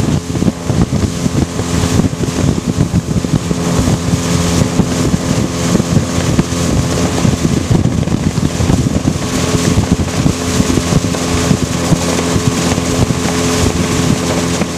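Motorboat engine running steadily at speed, a constant drone under rushing wind and water noise, with wind buffeting the microphone.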